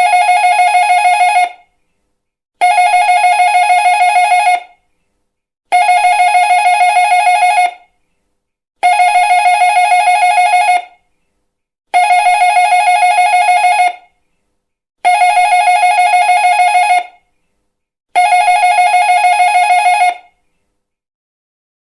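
Doorbell ringing, seven times in a row. Each ring is a fluttering trill about two seconds long, and a new one starts about every three seconds. The rings stop near the end.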